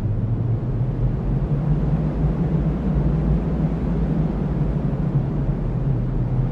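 Strong cyclone wind blowing steadily as a deep, low rush without let-up.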